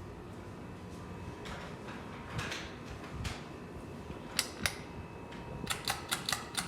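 Ceiling fan running with a steady low hum, then sharp clicks: two about four seconds in, and a quick run of about seven near the end.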